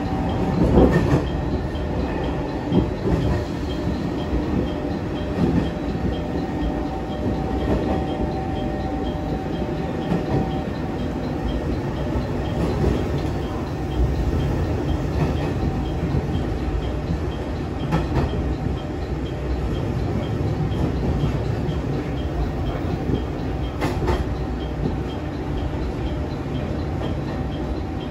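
KTR700 series diesel railcar running along the line, heard inside the cab: a steady rumble of engine and wheels on rail, with two sharp clicks in the second half.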